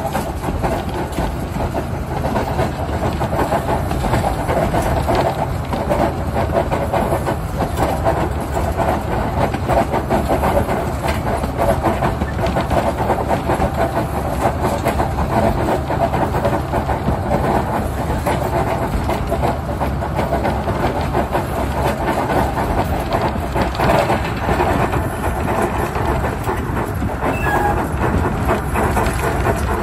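Narrow-gauge train running along the track, with a steady rumble and the clatter of wheels over the rail joints, heard from right beside the diesel locomotive.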